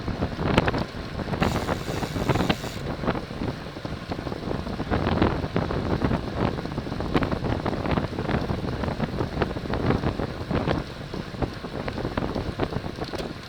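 Wind rushing and buffeting over the microphone of a camera riding on a racing bicycle at speed, with irregular knocks and rattles, and a brief high hiss about one and a half seconds in.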